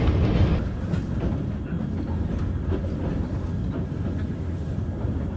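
Toyama Chihou Railway electric train running along the line, heard from inside the car: a steady low rumble with faint clicks of wheels over the rail, easing slightly in level about half a second in.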